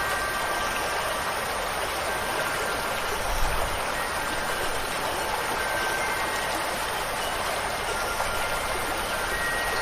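Steady rush of falling water, rain or a stream, with wind chimes ringing faintly in single thin notes now and then. A brief soft low thump about three and a half seconds in.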